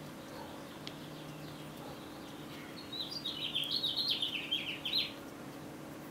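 A small bird chirping a quick run of high chirps in the middle of the stretch, over a faint steady low hum.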